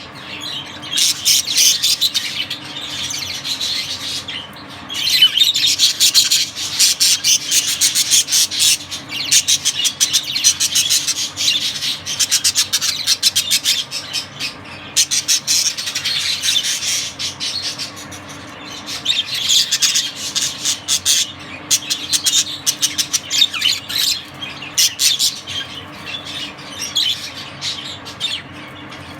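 Budgerigars chattering nonstop, a dense run of quick high chirps and harsh squawks, getting louder in a few stretches.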